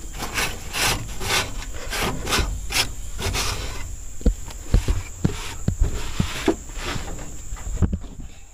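Wood being scraped in repeated rasping strokes, about two a second, then a run of short, light knocks.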